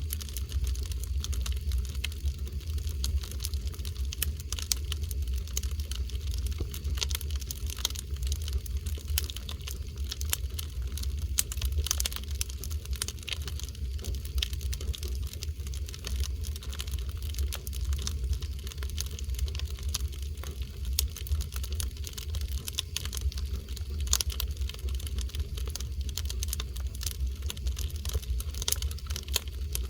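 Oak firewood burning, crackling with many small irregular pops over a steady low rumble.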